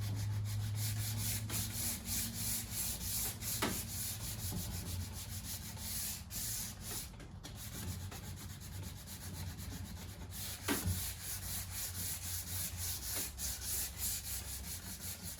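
Sandpaper being rubbed back and forth by hand over oak trim in quick, uneven strokes, knocking down grain that the stain has raised. There are a couple of light knocks, about four seconds and eleven seconds in.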